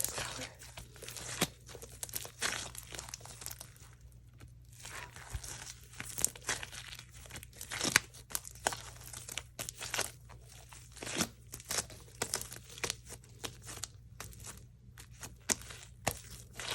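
Hands kneading and stretching slime, making irregular sticky pops, clicks and crackles.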